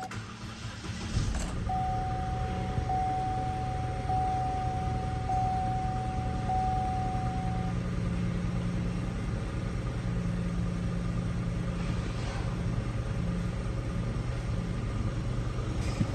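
A 2014 Chevy Cruze's 1.8-litre four-cylinder engine starts about a second in and then idles steadily. A dashboard warning chime beeps over and over for the first several seconds of the idle.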